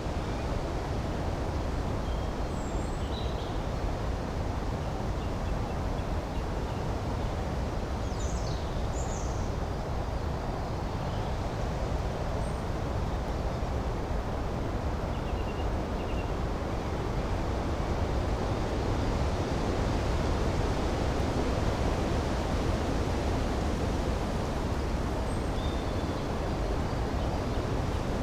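A steady rush of flowing river water, with a few faint, short bird chirps scattered through it.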